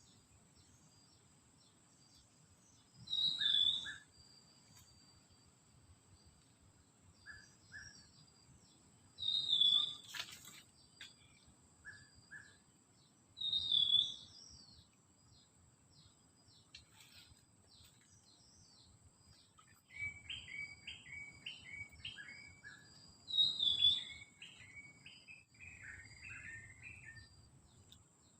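Forest birds calling. One bird repeats a loud, short falling call about four times, several seconds apart, and a rapid run of quick chirps starts about two-thirds of the way in. A steady thin high-pitched whine runs underneath.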